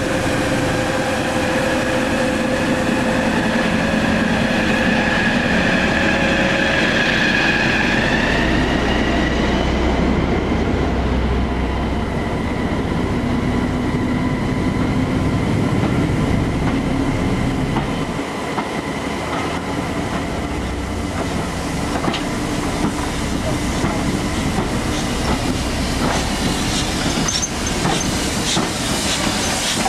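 Steam-hauled train of passenger coaches running past along the platform: a steady rumble of wheels on rail, with a high steady squeal of wheels on the rails and wheels clicking over the rail joints, the clicks sharper in the last several seconds.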